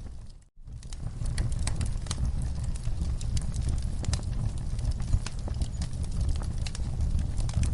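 Wood fire crackling in a fireplace: irregular sharp pops and snaps over a low rumble of the flames. The sound briefly drops out to near silence about half a second in, then resumes.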